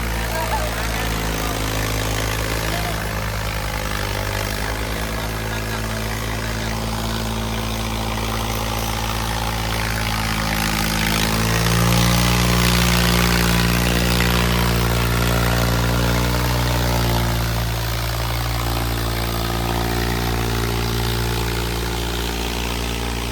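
Diesel farm tractor engines running steadily, then revving higher and louder for several seconds in the middle before settling back.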